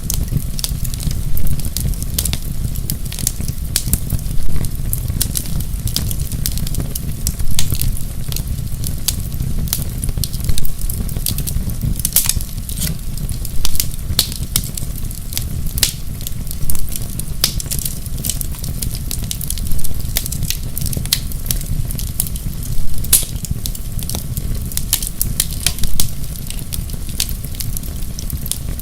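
Wood fire crackling in a fireplace: a dense run of small sharp pops and snaps over a steady low rumble, with a louder pop about every three seconds.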